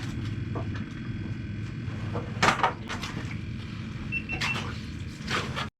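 Knocks and clatter of cooking gear being handled over a steady low hum, with three short high beeps about four seconds in.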